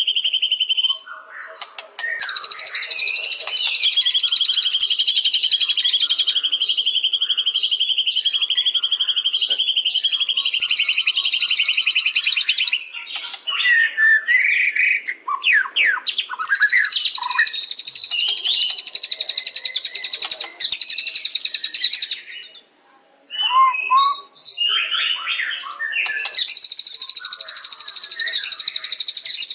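White-rumped shama (murai batu) singing: long bouts of rapid, high-pitched chattering notes, broken up by shorter bursts of varied whistled notes that slide up and down.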